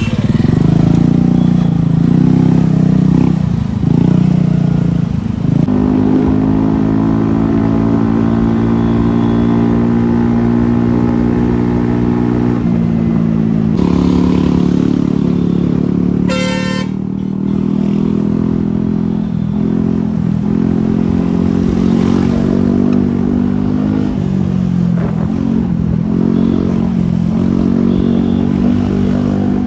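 Motorcycle engine running steadily while riding, its pitch shifting a few times as the speed changes. A vehicle horn honks once, briefly, a little past the middle.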